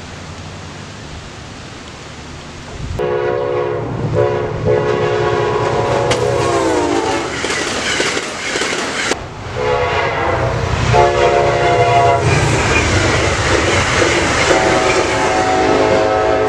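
Amtrak passenger train passing at speed through a grade crossing, the low rumble of its approach giving way to repeated long horn blasts about three seconds in. The horn's pitch drops as the locomotive goes by, and the horn sounds again over the rush and clatter of the cars on the rails.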